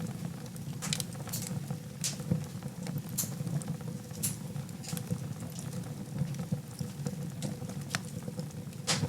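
Fireplace fire crackling over a low steady rumble of flames, with sharp pops about once a second; the loudest pop comes near the end.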